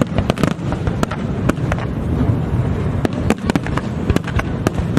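Fireworks display: a rapid, irregular series of sharp bangs and crackles, several a second, over a steady low rumble.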